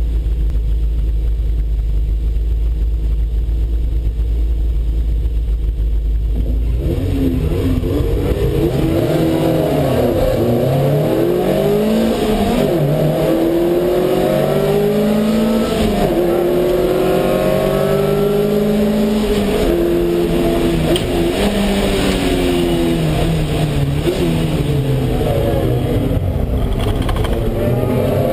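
Lotus Elise race car engines heard from inside the cockpit: idling steadily while stationary, then from about seven seconds in revving and pulling away. The pitch rises and falls repeatedly through gear changes, with the engines of the surrounding cars overlapping it.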